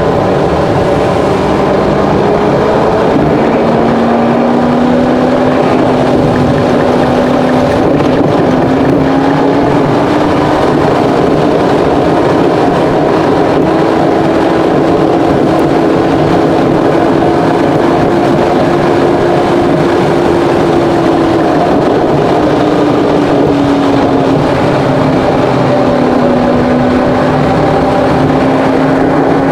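Car engine and road noise while driving at speed. The engine note climbs slowly, dips once about two-thirds of the way through, then climbs again.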